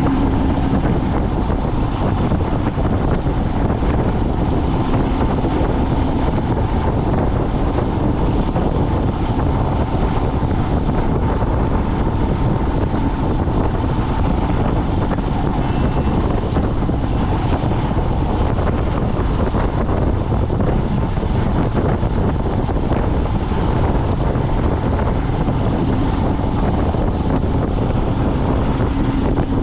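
A vehicle driving along at a steady pace: constant engine and road rumble with wind noise and a faint steady engine hum.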